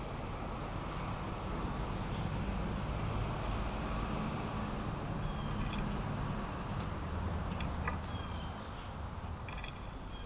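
A steady low rumble, with faint, short bird chirps and a few light clicks scattered over it, more of them in the second half.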